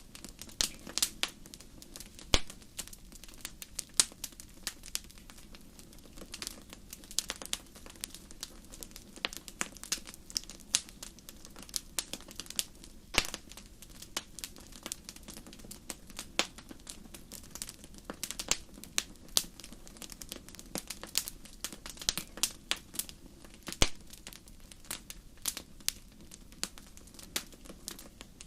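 Wood fire crackling steadily, with frequent irregular sharp pops and snaps over a low rumble of flame.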